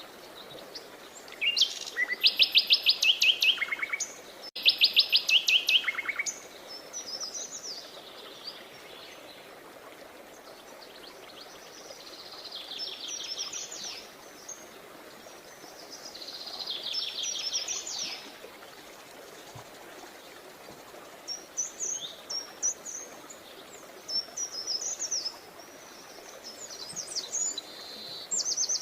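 Songbirds singing: two loud, fast trills in the first few seconds, then softer trills and bursts of short chirps, over faint steady background noise.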